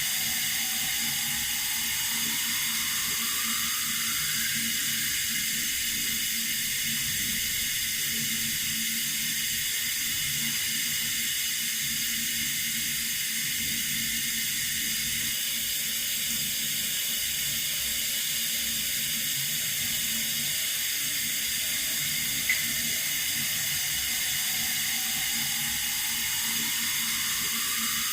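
Water running steadily from a tap, an even hiss that holds without change, with one small click about 22 seconds in.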